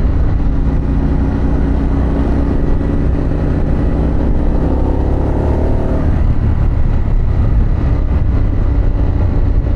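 Harley-Davidson Pan America's Revolution Max 1250 V-twin running under way, its pitch rising steadily over a few seconds as it accelerates, then dropping away about six seconds in, over a strong low rumble.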